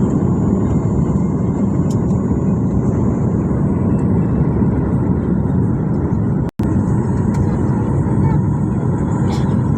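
Steady airliner cabin noise: the drone of the jet engines and rushing air heard from inside the cabin, cut off for a split second about six and a half seconds in.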